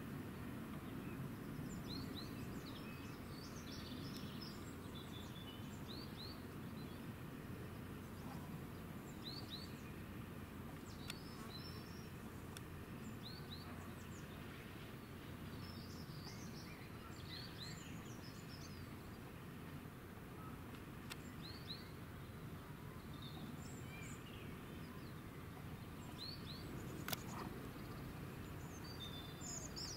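Small birds chirping on and off with short, high calls over a steady low rumble of distant outdoor background noise. A single sharp click comes near the end.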